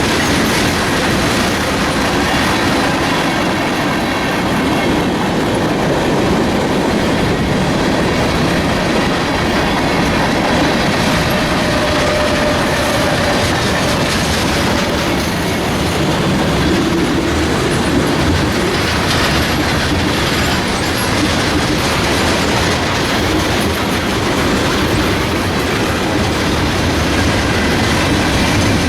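Freight train cars rolling past at close range, a steady loud rumble with wheels clacking over the rail joints and a faint thin squeal from the wheels.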